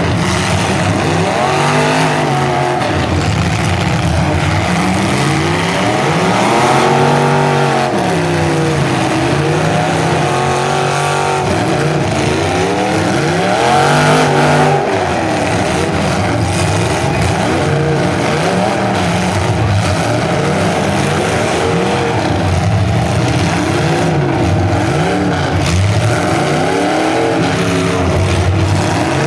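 Several full-size demolition derby cars' engines revving up and down at once, their pitches rising and falling over one another in a loud, continuous din.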